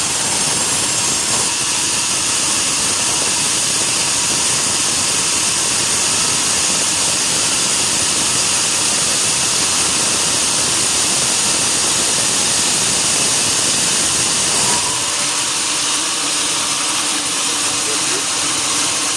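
A sawmill saw cutting through a mahogany log: a loud, steady, hissing machine noise. The lower part of the sound drops away about fifteen seconds in.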